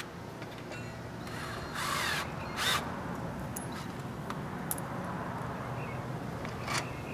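Window motor and regulator parts being handled and fitted together, with scattered light clicks and knocks, and two short, harsh, louder sounds about two seconds in.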